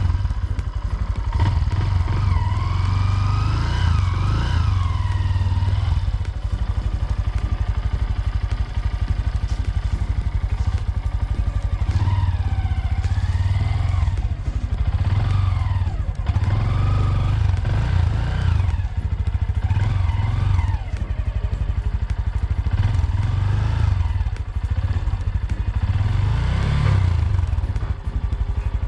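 Honda Grom's small single-cylinder engine running under way, its revs rising and falling again and again over a steady low rumble.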